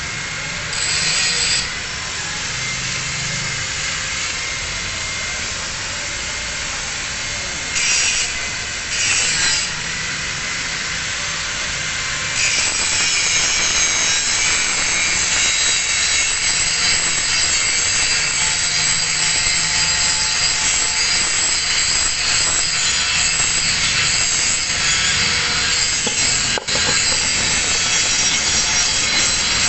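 Angle grinder grinding a single bevel on the edge of a steel plate, a steady abrasive grinding with a few short louder surges early on, then heavier and louder from about twelve seconds in.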